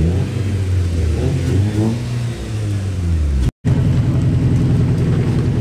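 Car engine revving up and down at close range. After an abrupt cut about three and a half seconds in, a car engine runs steadily as it drives slowly past.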